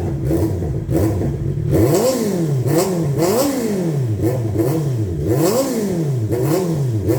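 Honda CB650R's inline-four engine through an Ixil Extreme Carbon full exhaust with the silencer insert fitted. It idles briefly, then is blipped repeatedly, each rev rising sharply and falling back, about once or twice a second.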